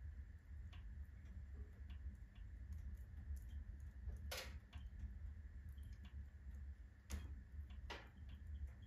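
Firewood burning in a wood stove, crackling with irregular sharp pops over a low steady rumble; the loudest cracks come about four seconds in and twice near the end.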